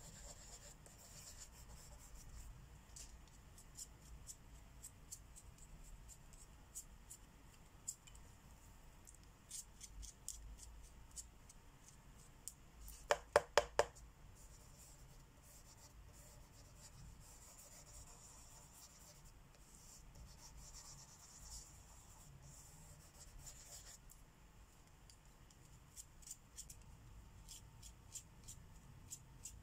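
Marker tips stroking on the paper of a coloring book, a faint scratching, with a quick run of four sharp clicks about thirteen seconds in.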